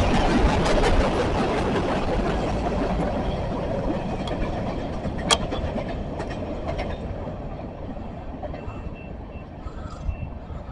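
Train rolling past on the rails, its wheel and rail noise fading steadily as it moves away, with one sharp clank about five seconds in.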